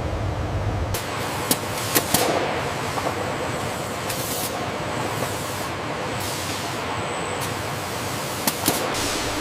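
Factory noise: a steady hiss with a few sharp clicks or knocks, two close together a couple of seconds in and two more near the end.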